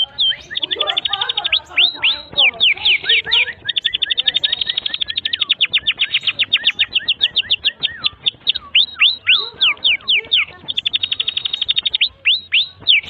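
Domestic canary singing a long, unbroken song. Very fast buzzing trills alternate with runs of quick, downward-sweeping whistled notes, several a second.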